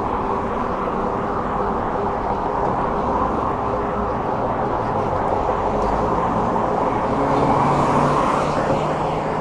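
Steady wind and road noise from riding an e-bike along a road, with passing traffic swelling a little louder about eight seconds in.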